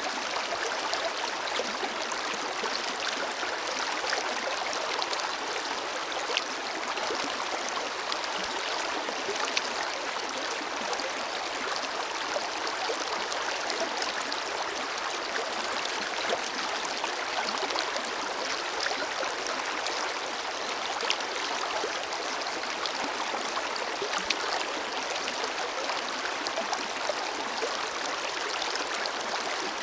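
Forest river flowing over stones: a steady rush of water, with many small splashes and gurgles and little deep rumble.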